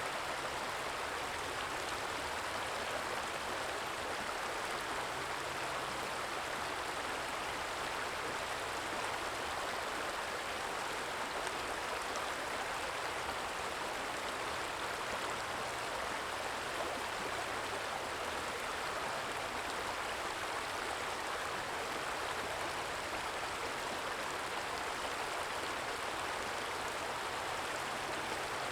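Small stream flowing steadily: a soft, constant trickle of running water.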